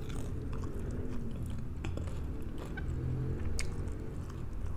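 A person chewing food close to the microphone, with a few soft mouth clicks, over a steady low hum.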